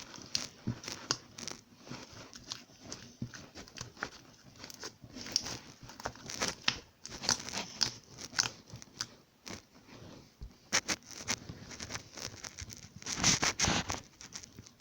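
Irregular crinkling and rustling with many small clicks, loudest in a cluster near the end.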